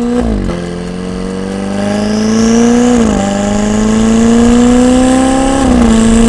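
Ferrari 488's twin-turbo V8 through an IPE exhaust, accelerating hard. The engine note climbs steadily and drops back at each upshift: just after the start, about three seconds in, and near the end.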